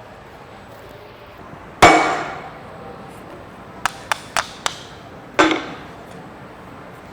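Hammer striking a hole punch to cut bolt holes in a new pump gasket: one heavy ringing blow, four quick light taps, then another heavy ringing blow.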